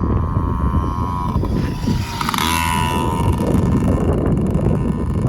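Small kids' dirt bike engine running, its pitch dipping and then climbing again about two seconds in, over heavy wind rumble on the microphone.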